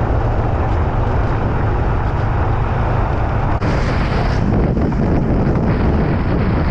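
Motorcycle engine running under way, with heavy wind rush on the microphone over a steady low rumble; a brighter hiss rises about three and a half seconds in.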